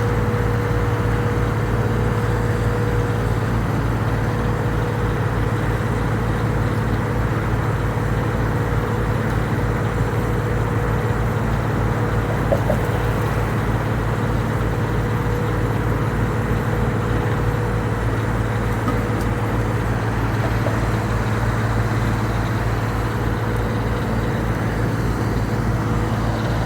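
Engine of crack-sealing equipment running steadily at constant speed, with an even low-pitched throb and a steady hum. A single brief click about halfway through.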